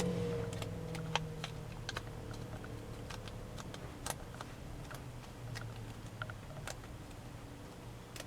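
Origami paper being folded and creased by hand: scattered crisp clicks and taps at irregular intervals, over a low steady hum.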